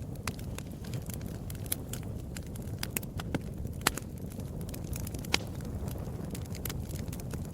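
Wood fire crackling: a thick run of sharp snaps and pops over a steady low rumble of burning, with a couple of louder pops about four and five and a half seconds in.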